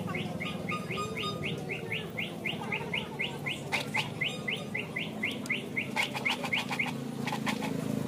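A small bird calling in a rapid series of short, high rising chirps, about four a second, over a low outdoor murmur, with a quick run of sharp clicks near the end.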